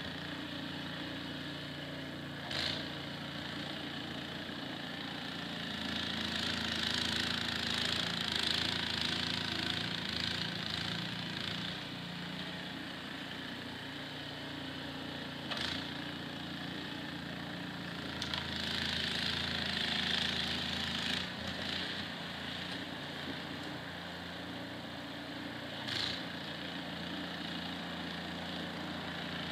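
Small engine of a snowblower running steadily, with a hiss that swells and fades twice and three short knocks.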